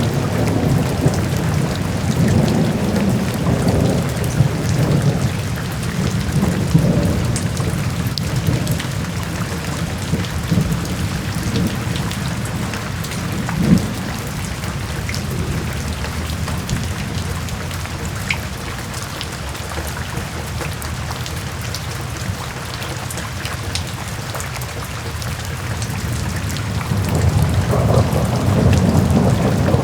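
Steady rain falling, with a low rolling rumble of thunder that swells over the first several seconds, fades, and builds again near the end.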